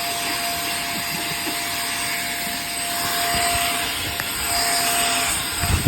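Hoover React cordless vacuum running through its hose attachment. Its steady motor whine is joined by irregular rattles and clicks in the second half, with a thump just before the end, as the hose clogs with the mess-test debris.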